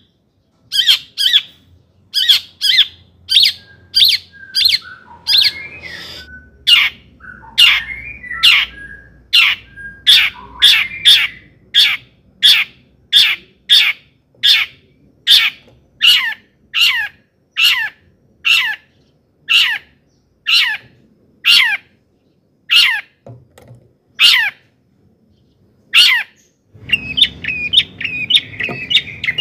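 Long-tailed shrike (cendet) calling: a long run of harsh, sharp calls that each drop in pitch, about two a second, with a softer warbling phrase woven in for a few seconds. Near the end it breaks into a faster, denser chatter.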